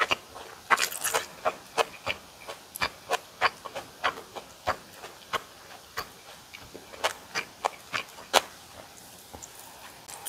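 Close-miked eating of boiled pork and kimchi: irregular wet chewing smacks and crunchy clicks, two or three a second, thinning out near the end.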